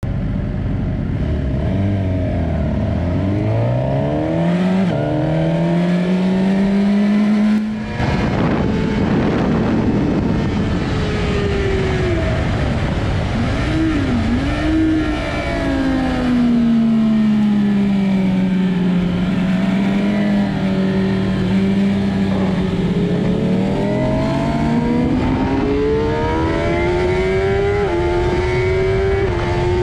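Suzuki GSX-R 600 K8's inline-four engine through an Akrapovic full exhaust, heard onboard at track speed. The revs climb through the gears, drop sharply about eight seconds in, dip with short blips around fourteen seconds, hold steady for a long stretch, then climb again with quick upshifts near the end.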